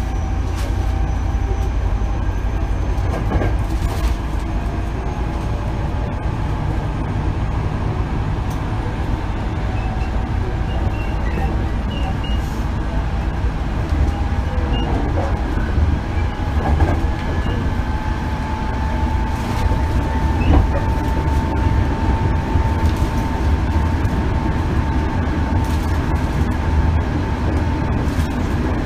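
Hankyu 8000 series electric train running, heard inside the car: a steady low rumble of wheels on rail with scattered rail-joint clicks and a faint motor whine that rises slowly in the second half.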